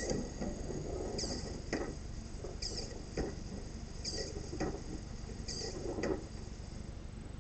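A solenoid-driven 3D-printed pulse propulsion device cycling. Roughly every second and a half there is a short high squeak followed by a knock, and the rhythm stops about six seconds in.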